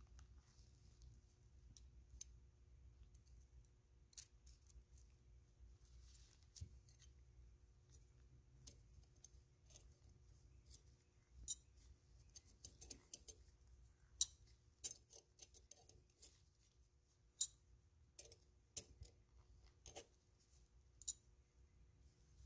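Thin steel utility-knife blades clicking and scraping against each other and the rusty cast iron box cutter handle as they are lifted out and set down. The sharp metallic clicks are few at first and come thick and fast in the second half.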